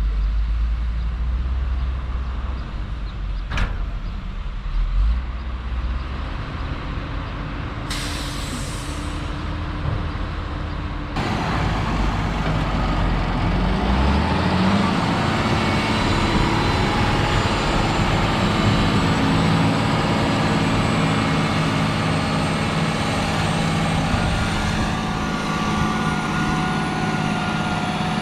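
Heavy truck engine running, with a sharp air-brake hiss about eight seconds in. About eleven seconds in, a louder heavy machine takes over and runs steadily with several sustained tones.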